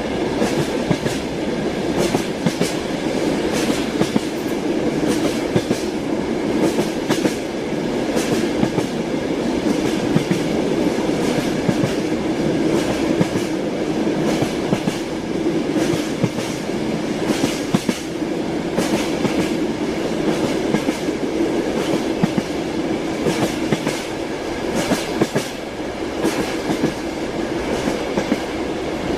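Train wheels knocking over the rails: a steady rumble with frequent irregular clicks and knocks from the wheels and carriage.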